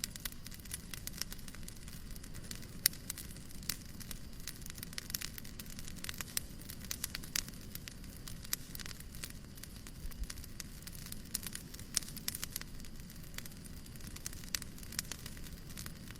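Fireplace crackling: irregular sharp pops and snaps over a steady low noise, with one sharper pop about three seconds in.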